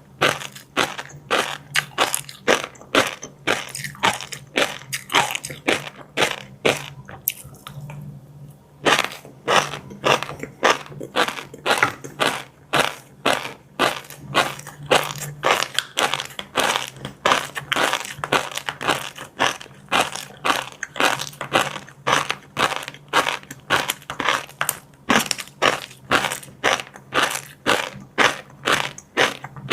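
Close-miked chewing of crunchy fried seafood with fish roe: a loud crunch about two to three times a second, with a short pause about eight seconds in.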